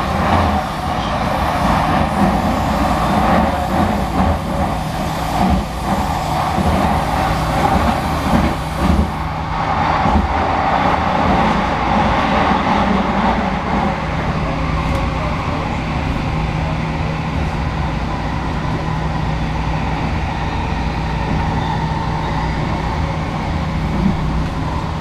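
SkyTrain Expo Line car, a linear-induction-motor train, running along its guideway, heard inside the car: a steady rumble and rush of the ride with a constant low hum underneath, easing a little about halfway through.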